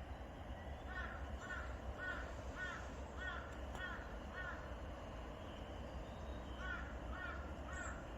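A bird calling in a series of short, repeated, pitched notes, about two a second: eight in a row, a pause, then three more near the end.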